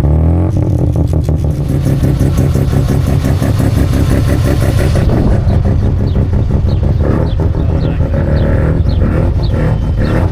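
Mazda rotary engine running loud with a rapid pulsing exhaust note, revs rising and falling.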